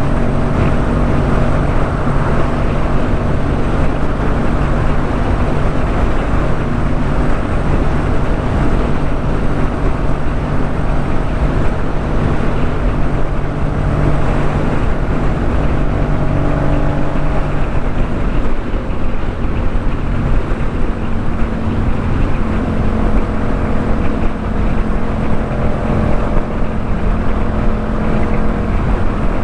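Yamaha MT-07 parallel-twin running through a Jeskap K4 full aftermarket exhaust at a steady cruise, with road and wind rumble. About two-thirds of the way through, the engine note fades back, then settles at a new steady pitch.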